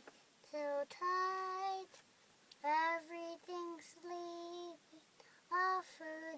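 A four-year-old girl singing softly, a slow sleepy song sung in short phrases with several long held notes.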